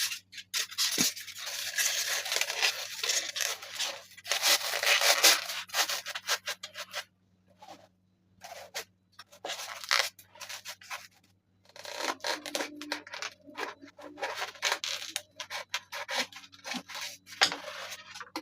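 Rubbing and scraping of hand work on material, in irregular stretches of one to several seconds with short pauses between them, over a faint steady hum.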